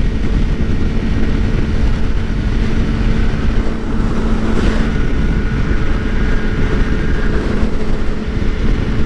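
2013 Suzuki GSX-R600's inline-four engine running at a steady cruising speed, a constant engine note under heavy wind noise on the microphone.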